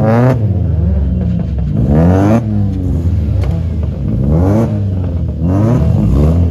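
Modified car engine revved repeatedly, its pitch climbing and dropping back several times over a steady running drone.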